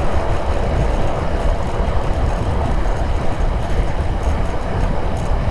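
TVS Apache 4V motorcycle ridden quickly on a rough road: steady engine and road rumble under a rush of wind on the microphone.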